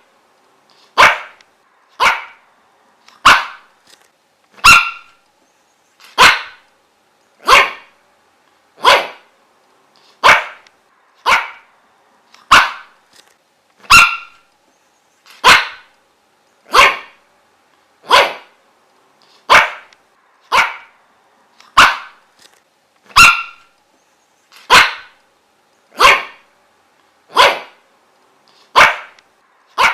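A dog barking in single, sharp barks at a steady, even pace, about three barks every four seconds.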